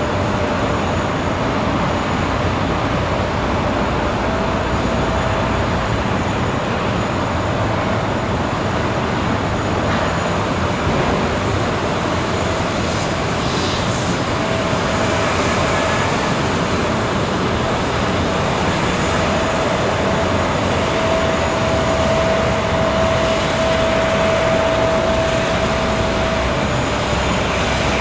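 Jet noise from a Boeing 777-300ER on the ramp: a steady rush with a high whine that comes and goes, strongest in the second half.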